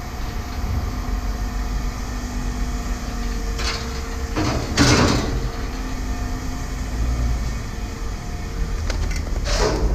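Steady low rumble of an idling engine with a constant hum, broken by two brief harsh scraping or clanking noises, one about five seconds in and one near the end.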